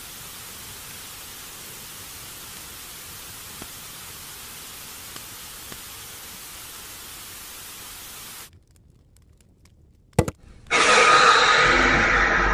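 Television static hissing steadily, then cutting off suddenly. A short silence follows with a sharp click, and then loud scary music starts near the end.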